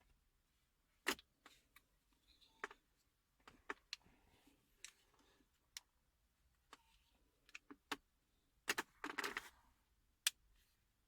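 Plastic louver blades of a Citroën C-Elysée / Peugeot 301 dashboard air vent being pressed back into the vent frame, snapping in with faint, sharp clicks. The clicks come singly a second or so apart, with a quick cluster of clicks and rattle near the end.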